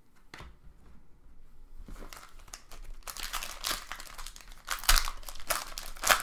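Plastic trading-card pack wrapper crinkling and tearing as it is opened by hand, quiet at first, then busy crinkling over the last few seconds with two sharper rips near the end.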